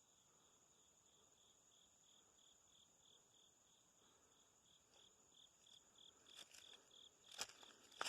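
Faint woodland insects calling: a steady high trill with a pulsed chirp repeating about three times a second. Near the end, a few footsteps on the forest floor.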